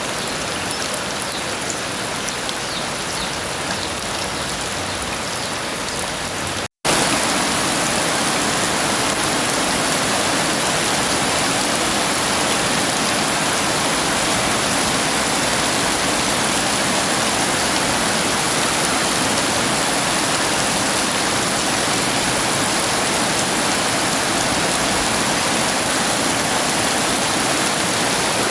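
Heavy rain falling steadily, an even dense hiss. It cuts out completely for an instant about seven seconds in, then resumes slightly louder and brighter.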